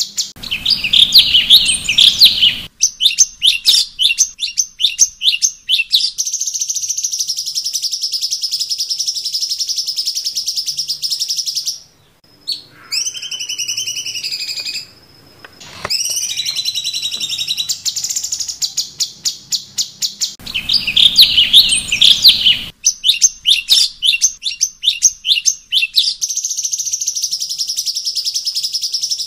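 Cucak cungkok singing loudly: fast chattering trills and rapid repeated notes, then a long dense buzzing stretch. About halfway there is a short softer passage of gliding whistles, and the same song sequence starts again about two-thirds of the way in.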